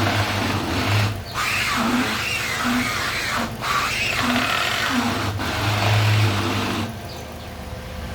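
Front strut mount bearing of a 2012 Toyota Corolla XEi creaking and squealing in a run of rising and falling squeaks as the steering wheel is turned quickly with the car standing still, heard from inside the cabin. A steady low hum runs underneath. The squeal is the sign of a worn, dry strut mount bearing.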